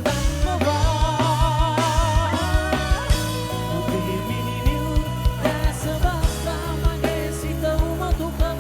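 Live band music: a singing voice over held bass notes and a steady drum beat.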